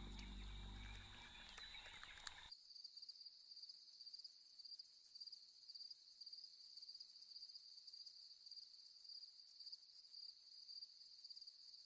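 Crickets chirring in a steady high trill with rapid pulsing, faint night ambience that begins abruptly about two and a half seconds in as a soft music cue ends.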